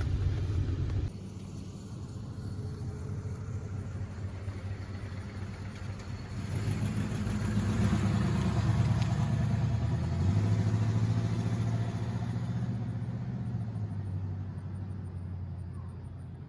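1971 Oldsmobile Cutlass S engine: a steady low rumble cuts off about a second in, then the car drives past, its engine note building, peaking around ten seconds in and fading as it moves away.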